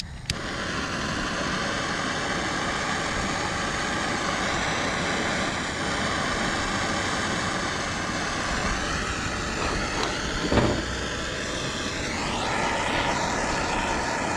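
Soldering torch lit with a click at the very start, then its flame burning with a steady hiss as it heats a copper shower-valve fitting that is not yet hot enough for the solder to flow.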